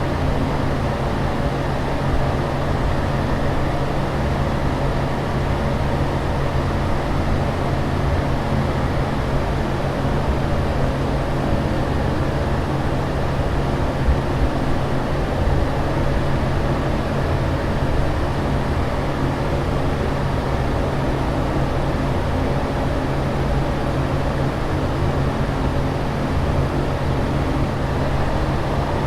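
Steady airliner cabin noise in flight: an even rush of engine and ventilation noise over a constant low hum, without change.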